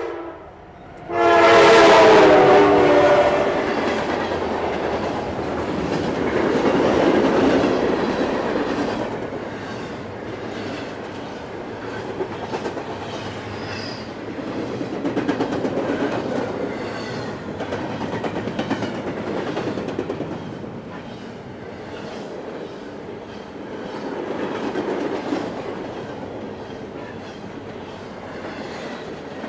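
Locomotive air horn sounding right at the crossing, its pitch dropping about two seconds in as it passes. Then the steady rumble and clickety-clack of a long train of cars rolling by at speed.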